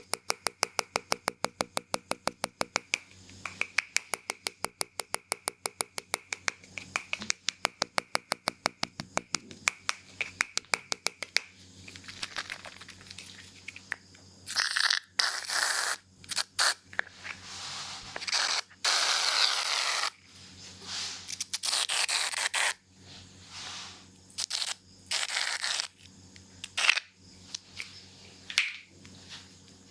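Barber's scissors snipping rapidly in an even rhythm, about four to five cuts a second, that stops about eleven seconds in. Then a run of short hissing and rustling bursts, the longest about a second and a half, followed by scattered clicks and rustles.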